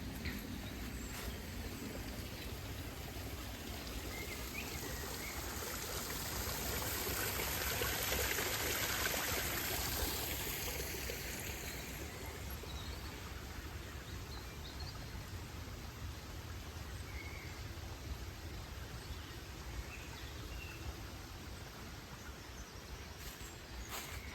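Outdoor ambience: a steady rushing hiss that swells for a few seconds in the middle and then eases off, with a few faint bird chirps.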